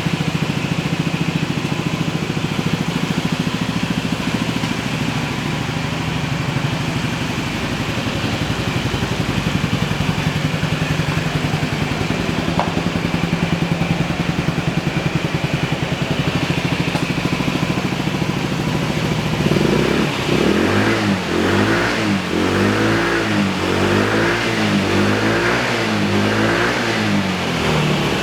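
Honda Zoomer AF58's 50 cc four-stroke single-cylinder scooter engine running through a custom aftermarket muffler. It idles steadily, then from about two-thirds of the way through it is revved repeatedly, the pitch rising and falling about once a second.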